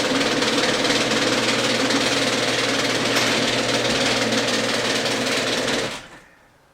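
32-year-old Genie screw-drive garage door opener running with a steady motor hum and a fast 'tuck tuck tuck' clicking, then stopping abruptly about six seconds in. The owner takes the clicking for a worn-out gear in the screw-drive carriage.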